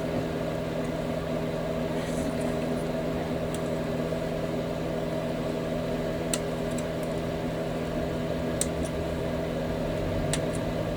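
A steady machine hum with a few light, sharp clicks spread through the second half, from small plastic model-kit parts and tools being handled at a workbench.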